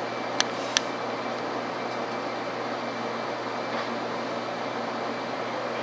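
Steady cabin noise of a Shinkansen train, an even hiss and rumble, with two sharp clicks in the first second.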